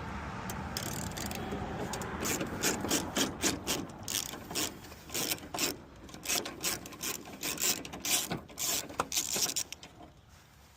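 Socket ratchet clicking in quick, uneven runs as a bolt is backed out. The clicks die away near the end.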